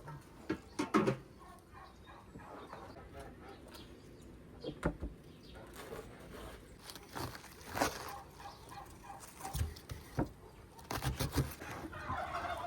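Scattered knocks and clicks, with domestic chickens clucking in the background.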